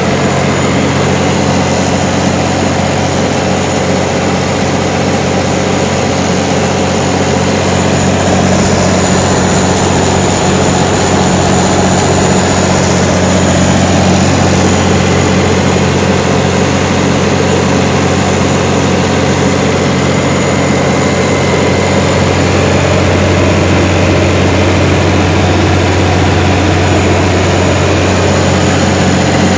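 White Motor Company diesel engine driving a Kohler 100 kW generator set, running steadily at constant speed with a deep, even engine note.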